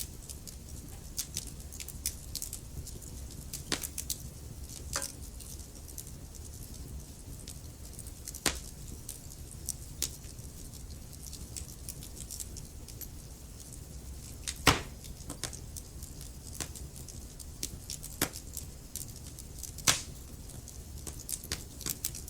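Wood fire crackling in a fireplace: irregular sharp pops and snaps over a steady low rumble, with two louder pops in the second half.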